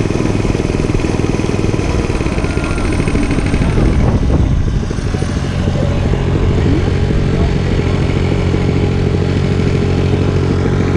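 Dirt bike engine running. Its note shifts about four to five seconds in, then holds at a steady pitch.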